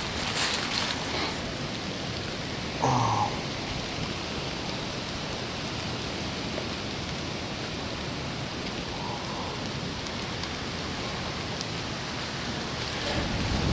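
Steady hiss of rain falling in woodland. A short, louder sound breaks in once, about three seconds in.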